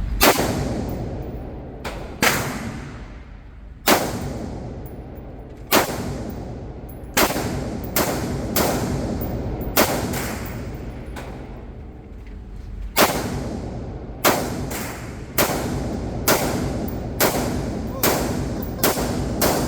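Gunshots at an indoor shooting range: about twenty sharp reports at uneven intervals, roughly one a second and sometimes in quick pairs, each echoing off the range walls.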